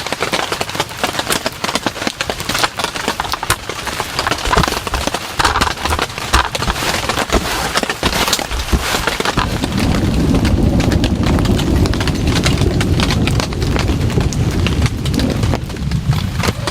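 Heavy rain striking a tent, heard as a dense, irregular patter of sharp drop impacts. From about nine and a half seconds in, a low rumble of thunder swells and holds for about six seconds.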